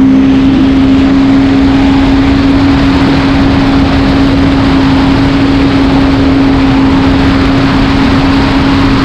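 Yamaha FX SVHO jet ski's supercharged four-cylinder engine running at a steady high speed, holding one pitch over a loud rushing noise.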